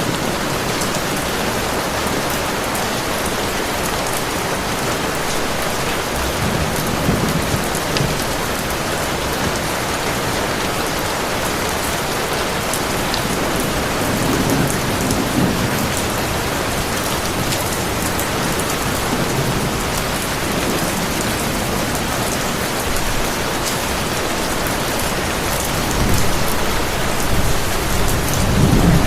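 Heavy rain pouring steadily, with low thunder rumbling a few times and building loudest near the end.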